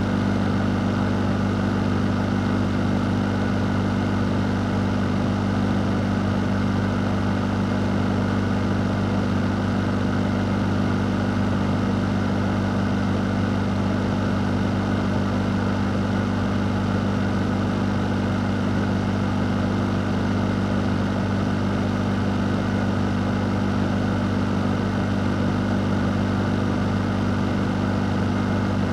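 Electric fan running steadily: a constant low hum under an even rush of moving air, unchanging throughout.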